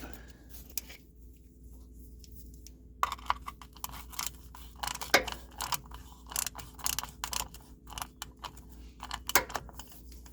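Hand tools clicking and clattering on metal under a truck, a ratchet working in short irregular strokes, as the front differential fill plug is put back in. The clicks start about three seconds in.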